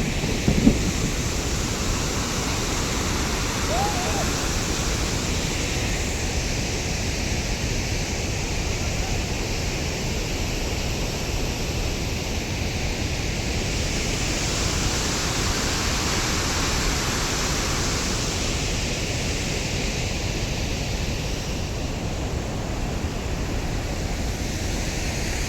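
Duduma Waterfall's falling water making a steady, unbroken rush of noise that grows a little fuller around the middle. A brief thump comes just after the start.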